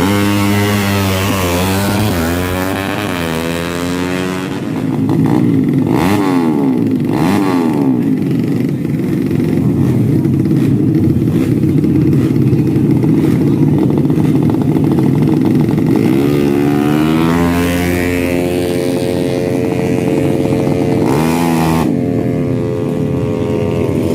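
Drag-racing motorcycle engines revving, their pitch swooping up and down several times with a steadier stretch in the middle. At times two engine tones overlap and cross.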